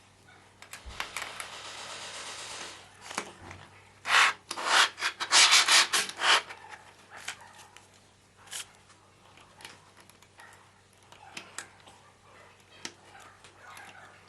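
Hand rubbing or scraping strokes on engine parts during assembly work: a stretch of steady rubbing, then a louder run of quick strokes in the middle, followed by scattered light clicks and knocks.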